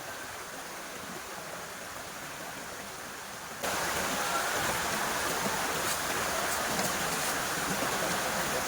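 Waterfall water rushing steadily, stepping up suddenly in level about a third of the way in and staying louder.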